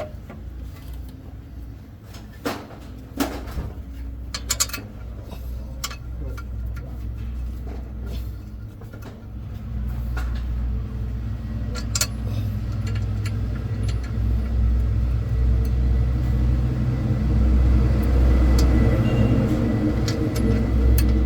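A heavy truck's diesel engine running with a steady low rumble that grows louder about halfway through. A few sharp metallic knocks sound in the first five seconds.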